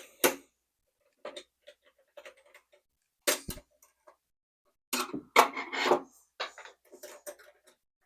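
Scattered clicks and knocks of small metal parts being handled while a sewing machine's bobbin winder is adjusted, with a denser, louder cluster about five seconds in.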